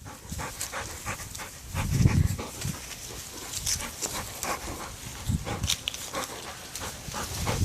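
Dogs at play, panting, with scattered clicks and rustles and a dull low thump about two seconds in.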